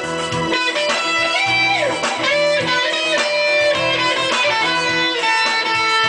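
Guitar-led music: a melodic electric guitar line with sliding, bent notes over a repeating bass pattern.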